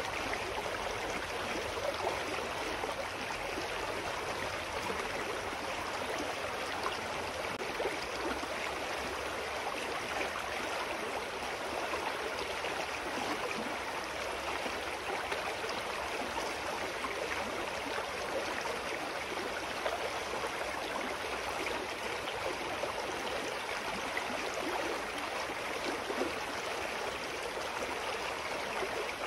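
A shallow mountain stream flowing over rocks, a steady rush of water with a fine gurgle.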